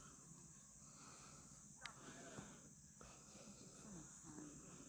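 Near silence: a faint, steady, high-pitched chirring of insects in forest, with faint distant voices and a single brief click about two seconds in.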